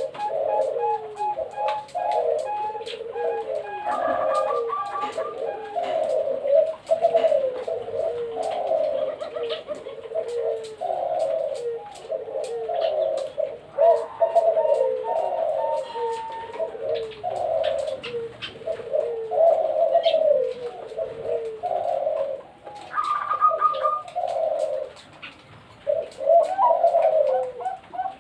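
Perkutut (zebra doves) cooing in quick, near-continuous runs of short falling notes, the calls overlapping one another with hardly a pause.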